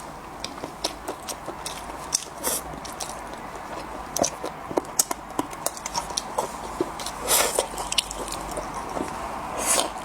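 Close-miked mukbang chewing of braised monkfish fin: a continual irregular run of wet smacks and mouth clicks, with two longer hissing sounds in the second half.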